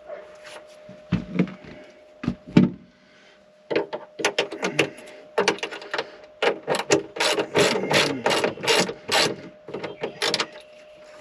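Ratchet wrench clicking in quick runs while a battery connection is worked on, after a few dull knocks.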